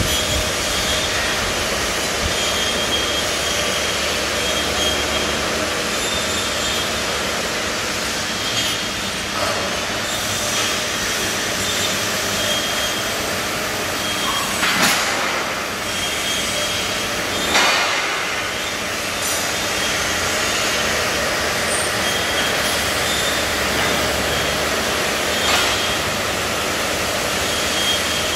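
Fiber laser cutting machine for structural steel at work: a steady hiss and machine noise, with two brief louder bursts about fifteen and seventeen seconds in.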